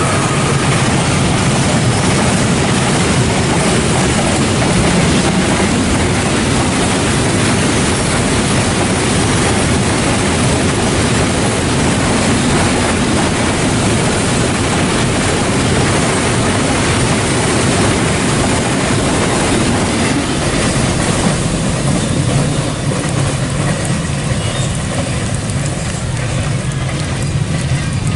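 Container freight train passing at speed, its wagons running over the rails with a loud, steady rush that eases slightly about three quarters of the way through.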